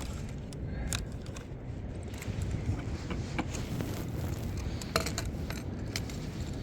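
Small clicks and light metallic rattles as a pouch and hand-held fishing scales are handled, with two sharper clicks about a second in and near five seconds, over a steady low rumble of wind.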